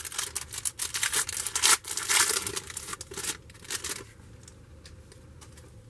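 Plastic trading card pack wrapper crinkling and being torn open for about four seconds, then quieter handling of the cards.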